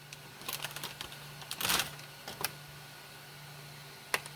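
Handling noises: a few short clicking, rattling bursts, loudest a little under two seconds in, and a single sharp click near the end, over a faint steady low hum.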